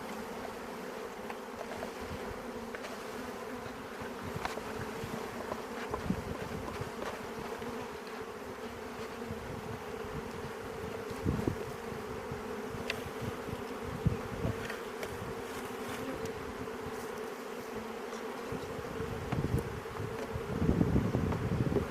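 A mass of honeybees from a newly installed package colony buzzing in a steady hum, with a few short knocks, the loudest of them near the end.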